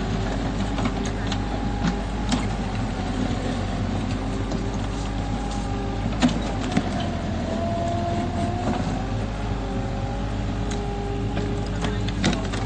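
Mini excavator's diesel engine running as it digs, with a hydraulic whine that drifts up and down in pitch and occasional sharp knocks. It is digging septic-tank holes in very dry, hard ground full of roots and rocks.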